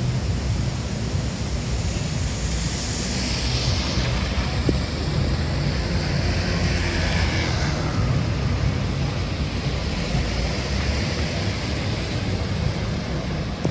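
Rainy city street noise: a steady low rumble of wind and traffic, with hissing swells about three and seven seconds in.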